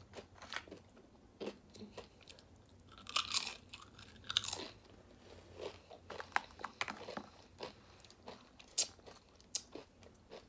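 Close-miked chewing of a crunchy tortilla chip: irregular crisp crunches, with a louder run of crunches about three to four and a half seconds in.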